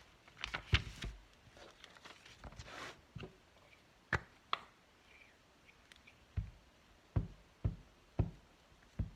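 Paper and craft materials handled and rustled on a work table, then a couple of light clicks and five dull knocks on the table in the last few seconds.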